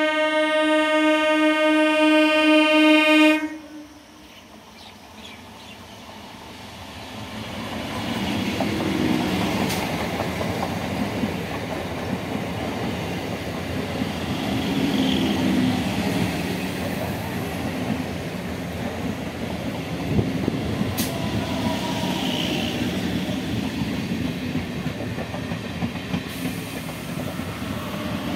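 EMU local train's horn sounding a long steady blast that cuts off about three and a half seconds in; then the electric train's running noise grows as it approaches and its coaches roll past, a steady rumble and rattle with a few sharp clicks from the wheels.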